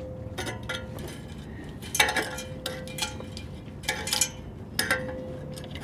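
Scattered light metal clinks and taps as a measuring tool is handled against the car's exhaust pipe. Two of the taps leave a steady ringing tone for about a second.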